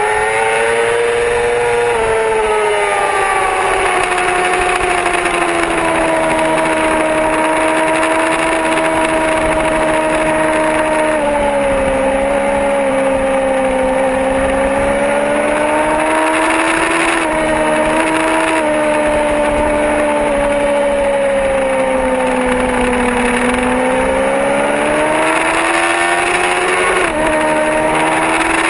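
Yamaha R6 inline-four sport bike engine running hard on track, its pitch rising and falling through the corners with a few sudden steps at gear changes, over rushing wind and rain noise.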